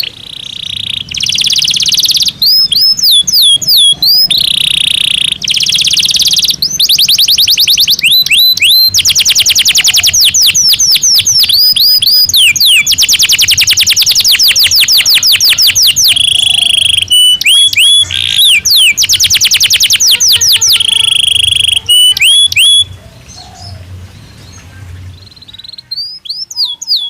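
Canary singing a loud song of rapid trills and sweeping whistled notes. The song breaks off for a few seconds near the end, then starts again.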